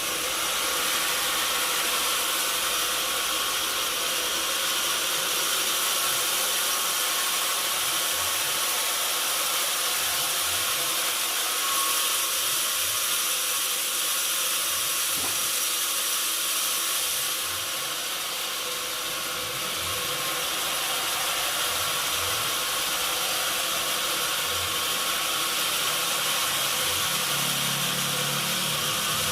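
Sawmill machinery running steadily with a constant high hiss, easing slightly for a couple of seconds about two thirds of the way through.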